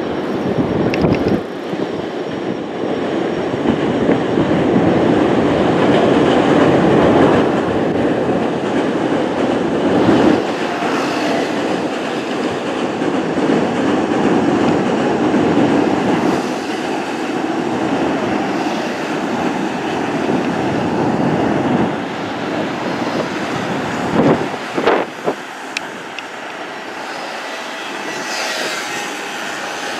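Electric commuter trains running across a steel truss railway bridge: a steady rumble of wheels on rails, loudest in the first third and easing off later. A few sharp thumps come about twenty-five seconds in.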